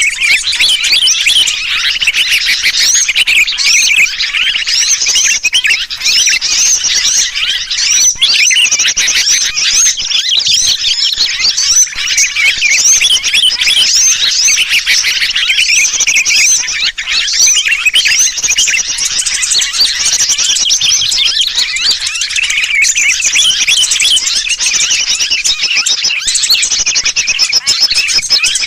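A bird-trapping lure recording: a dense, unbroken chorus of many agitated small birds chirping and trilling, mixed with the distressed 'trapped' calls of a sooty-headed bulbul (kutilang), meant to draw wild birds in.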